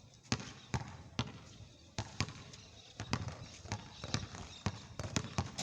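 Basketball bouncing on a court: about a dozen sharp bounces at uneven intervals.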